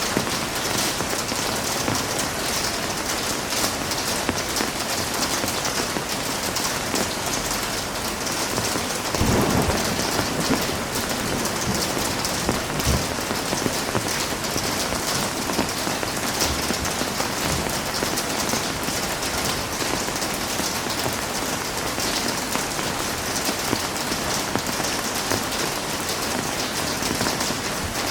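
Heavy rain falling steadily, a dense even hiss of drops, with one short low rumble of thunder about a third of the way in.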